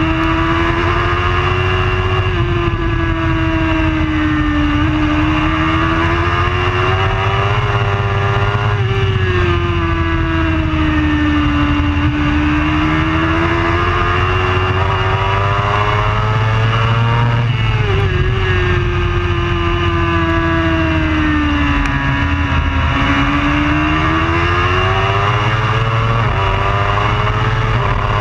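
Superbike race motorcycle engine running hard at high revs. Its pitch climbs and sags with the throttle and drops sharply at gear changes about four times, over a steady rush of wind and road noise.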